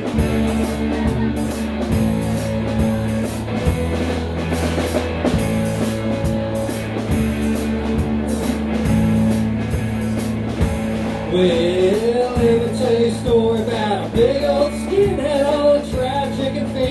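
Rock band playing live: guitar chords over a drum kit's steady beat. A wavering lead melody joins about eleven seconds in.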